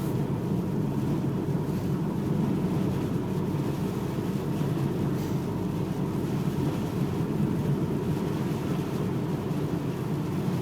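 Steady low rumble of a car driving at about 35–40 mph on a snow-covered road, heard from inside the cabin: engine, tyre and wind noise.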